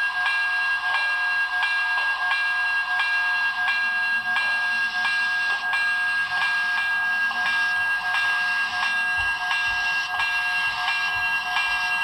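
Sound-equipped HO scale model steam locomotive (Broadway Limited Paragon4 sound) running on track: evenly paced steam chuffs about two a second over a steady high tone.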